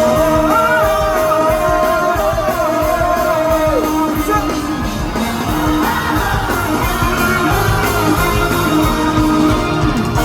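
Rock band playing live: a lead line holds a long wavering note for about four seconds, then slides and bends up into higher notes over drums and bass.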